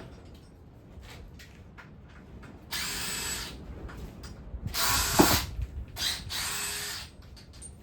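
Handheld power tool running in three short bursts of about a second each, the middle one loudest, with small clicks and knocks between them: fasteners being run out during an engine teardown.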